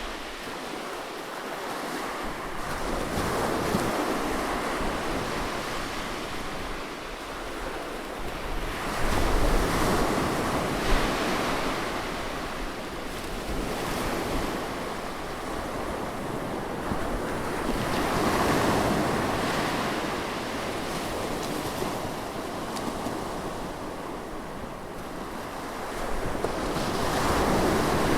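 Ocean waves breaking on a beach, the surf swelling and easing every few seconds in a continuous wash, with wind buffeting the microphone.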